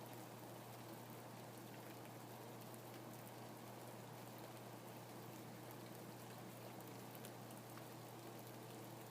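Steady, faint rainfall with scattered single drops ticking, over a low steady hum.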